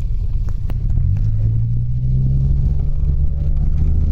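Mitsubishi Delica van running on the road, heard from inside the cabin: a steady low rumble of engine and road noise, with a steady engine hum setting in about a second in.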